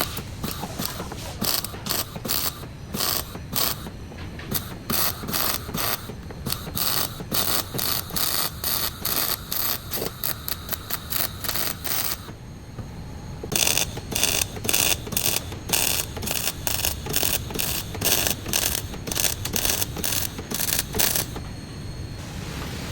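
A hand ratchet wrench clicking in quick repeated strokes, a few clicks a second, with a short pause about twelve seconds in.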